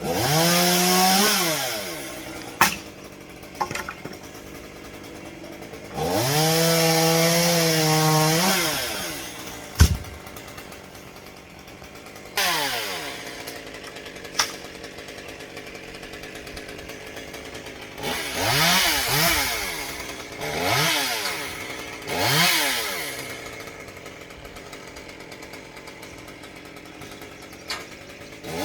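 Chainsaw revved up and held at full speed for a second or two, twice, dropping back to idle in between, then blipped up three times in quick succession near the end. A few short sharp knocks sound in the idle stretches.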